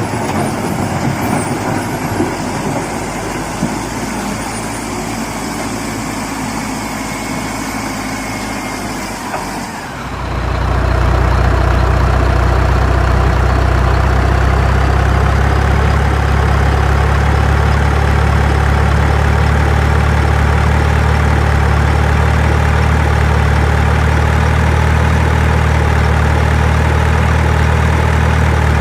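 Heavy vehicle engine running. About ten seconds in, it changes abruptly to a steady, deep idle.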